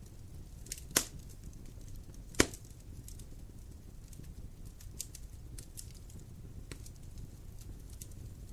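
Wood fire crackling over a low steady rumble, with two loud pops about a second and two and a half seconds in and smaller ticks scattered between.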